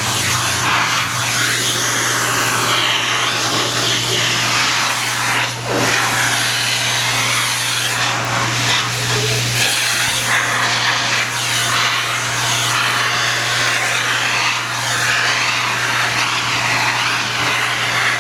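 Vacuum cleaner running steadily, with a constant motor hum. Its suction hiss keeps rising and falling as the nozzle is moved over a cat's coat.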